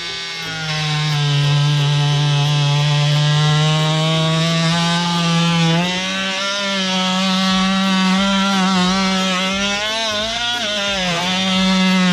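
Worx WX696 oscillating multi-tool running with its saw blade in a piece of firewood: a steady, loud buzzing whine. Its pitch steps up a little about six seconds in and sags briefly a couple of times near the end.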